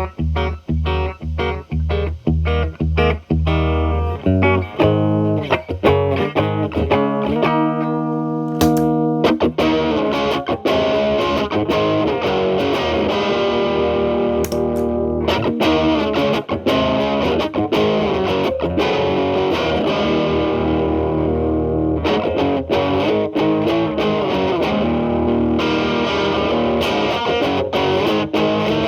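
Telecaster with single-coil Alnico pickups played through a Marshall Valvestate amp's clean channel: short, rhythmic clean chords. About eight seconds in, an MI Audio Crunch Box distortion pedal is switched on with its gain at 10, and the guitar turns thick and distorted.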